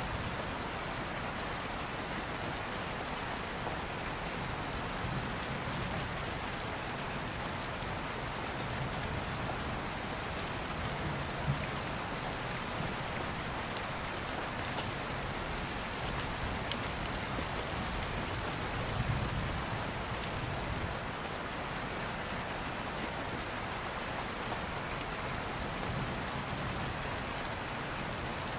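Steady rain falling, with a few sharp pops from a crackling open fire.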